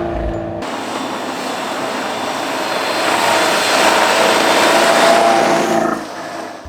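Rally car running on a snow stage: a faint engine note under a loud, even hiss of tyre and snow noise, building to its loudest about four to five seconds in and falling away near the end.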